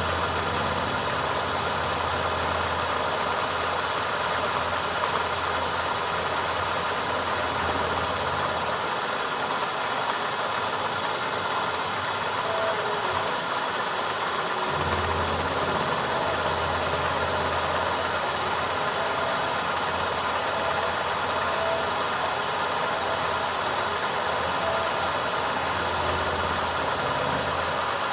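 A machine running steadily, with a low hum that drops out about nine seconds in and comes back near fifteen seconds.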